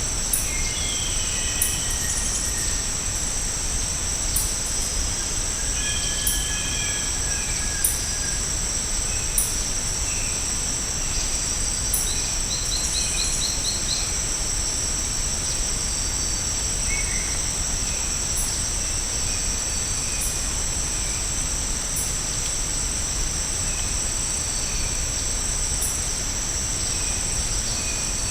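A steady, loud, high-pitched chorus of tropical insects, unbroken throughout. Short bird calls and chirps come and go over it, with a quick trill of notes about twelve seconds in.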